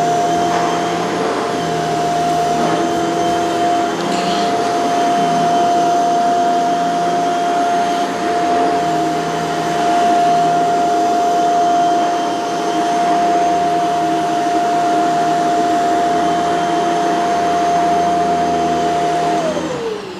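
Shark CZ351 canister vacuum running steadily on a rug, with a constant motor whine. Near the end the motor is switched off, and its whine falls in pitch as it winds down.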